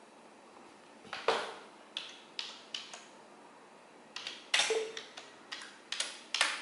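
Computer keyboard typing: a dozen or so irregular key clicks and taps, a few louder than the rest.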